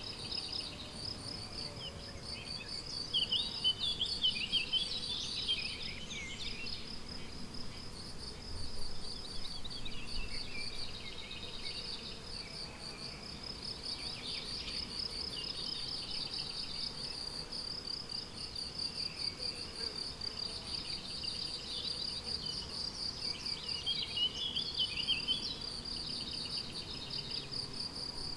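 Crickets chirring without a break in a fast, even pulse, with songbirds singing short phrases over them a few seconds in, around the middle, and again near the end.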